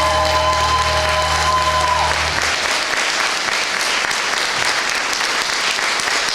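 Audience applauding. A held chord of the stage music sounds under it at first and cuts off about two seconds in, leaving only the applause.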